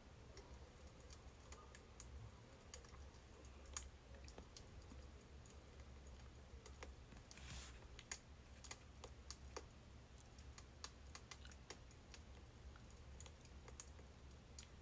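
Birch logs crackling in a fire: faint, irregular pops and snaps over a low rumble, with a brief hiss about seven and a half seconds in.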